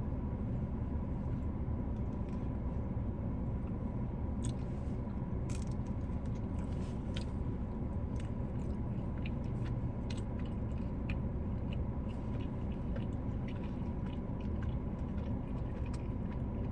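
Close-up chewing and wet mouth sounds of someone eating creamy mac and cheese, with many small scattered clicks, over a steady low rumble.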